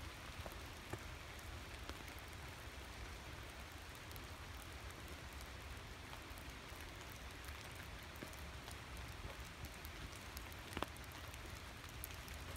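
Light rain falling: a faint, steady hiss with scattered drops ticking, one sharper tick late on.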